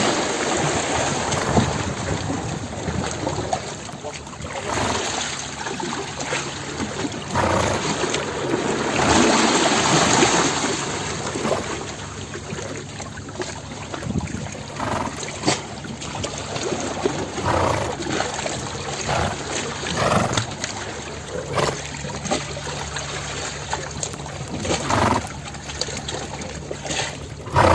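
Water sloshing and splashing, with many short splashes scattered through a steady wash.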